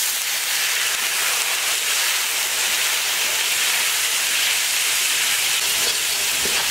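Spice pastes frying in hot oil in a cooking pan, sizzling and hissing steadily as a little water added to them boils off in steam.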